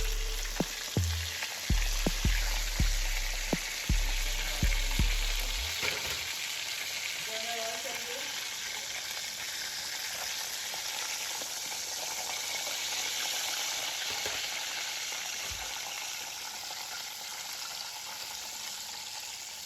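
Chicken pieces deep-frying in hot oil, a steady sizzle. In the first six seconds there is a quick series of clicks and knocks, from handling around the frying pan.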